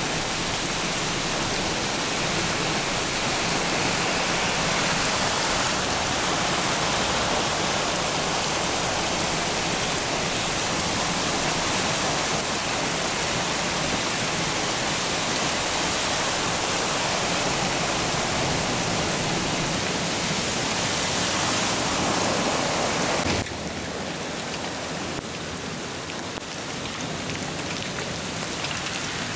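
Heavy rain pouring down on a flooded street, a loud steady hiss of rain on water and pavement. About three-quarters of the way through it drops suddenly to a quieter level.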